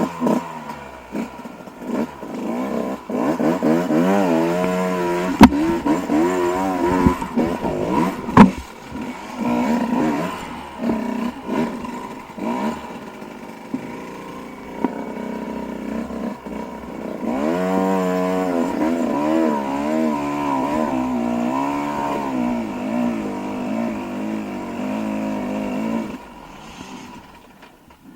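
Dirt bike engine revving up and down repeatedly while riding, with a couple of sharp knocks about five and eight seconds in. The engine sound drops away near the end.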